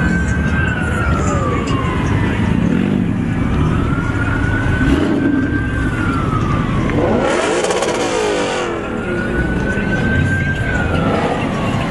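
Police siren wailing in slow rising and falling cycles, about one every five seconds, over the low rumble of car engines. About seven seconds in, a brief loud rush of noise, a car revving or passing close, cuts across it.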